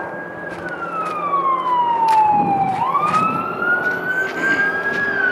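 Emergency vehicle siren wailing. Its pitch slides slowly down, turns sharply upward about three seconds in, then climbs slowly back up, with a few faint clicks scattered through it.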